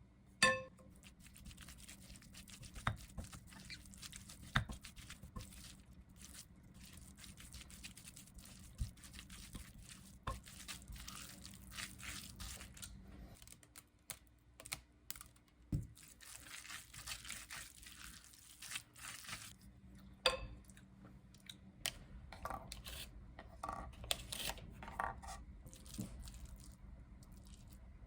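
Irregular crackling and crunching with scattered sharp clicks, over a faint steady hiss and hum.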